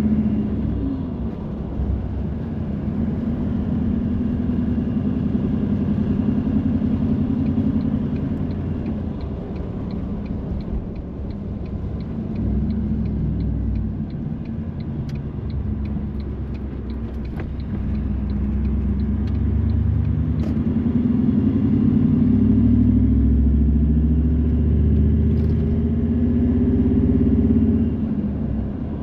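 Car engine and road noise heard from inside the cabin while driving, the engine's pitch rising twice as the car accelerates. A light regular ticking, about two a second, runs for roughly ten seconds in the middle.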